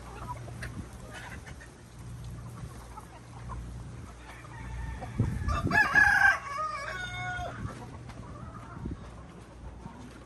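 A rooster crowing once, about halfway through, one long call of about two seconds, with hens clucking around it.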